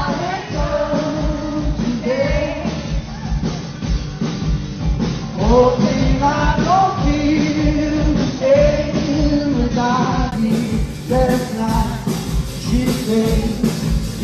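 A male voice singing a slow pop melody over a band accompaniment with a steady beat.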